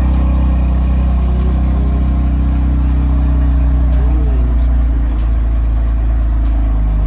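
Steady, even low drone of a car's engine, heard from inside the car.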